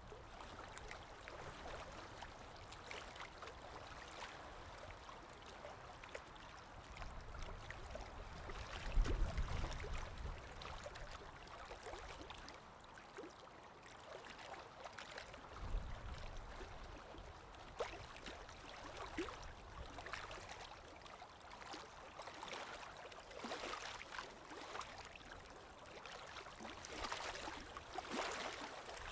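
Water trickling and gurgling in a stream, with many small irregular splashes. A brief low rumble sounds about nine seconds in and again around sixteen seconds.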